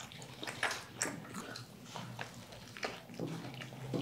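Close-miked chewing and lip smacking by people eating fast-food burgers and fries: a steady run of quick wet smacks and clicks.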